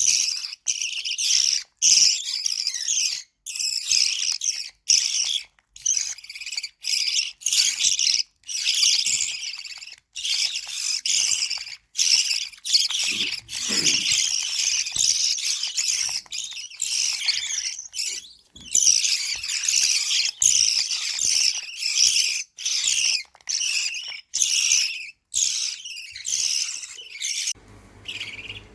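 Lovebird chicks making high-pitched begging calls at feeding, a near-continuous chatter broken by frequent short gaps.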